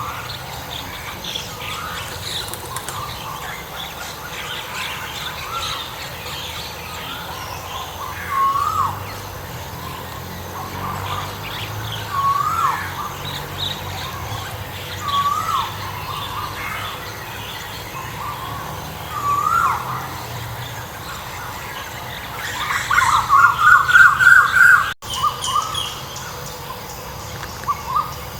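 Birds calling in the open: one bird repeats a short call that rises and falls every few seconds, other birds chirp higher throughout, and a fast run of rising notes about 23 seconds in is the loudest part.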